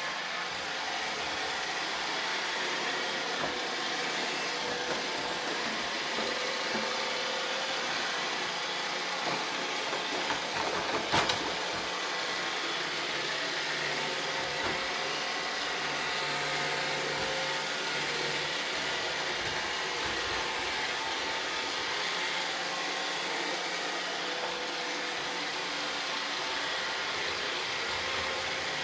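Roomba robot vacuum cleaners running, a steady whir of motors and brushes with a few held tones. One sharp knock about eleven seconds in.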